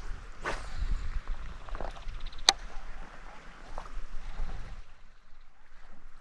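Handling noises in a kayak on the water: rustles and light knocks, with one sharp click about two and a half seconds in. A low rumble drops away near the end.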